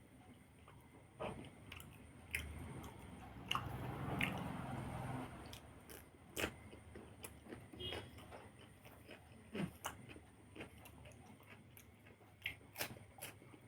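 A person chewing food close to the microphone: wet mouth sounds and small clicks, with a louder, busier stretch of chewing a couple of seconds in.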